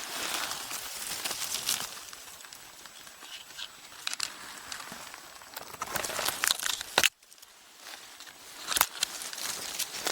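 Rustling and crackling of dry leaves and twigs on the forest floor, as someone moves through the undergrowth. Scattered sharp snaps, with a short near-silent gap about seven seconds in followed by a crisp snap.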